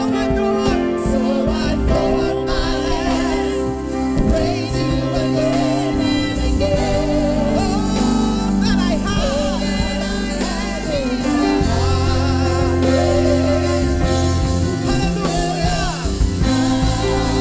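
Gospel worship song: a sung melody over band accompaniment with long held bass notes.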